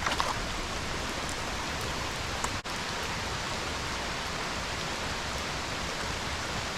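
Stream water running steadily, an even rushing hiss with a very brief break about two and a half seconds in.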